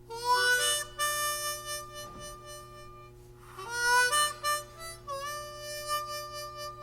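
Blues harmonica playing an intro: two short phrases of notes bent upward in pitch, then a long held note near the end.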